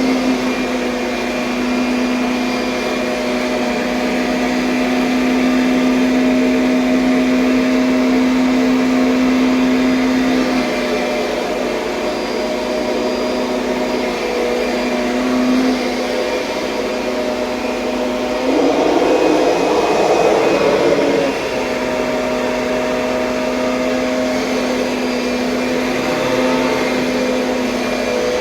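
Kirby Sentria upright vacuum cleaner running steadily with a pitched motor whine. About two-thirds of the way through, a louder, rougher rush lasts about three seconds, then the steady running resumes.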